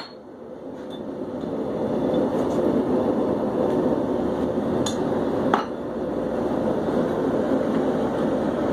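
Propane forge burner running with a steady rushing noise. About five seconds in come two sharp metal clinks from hammer or tongs on the work.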